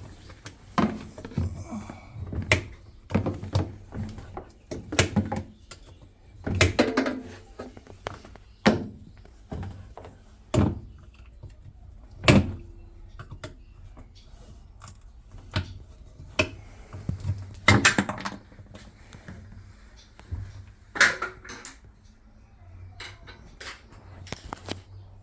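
Irregular knocks and clunks of objects being handled and set down, one or two a second, some ringing briefly, over a low steady hum.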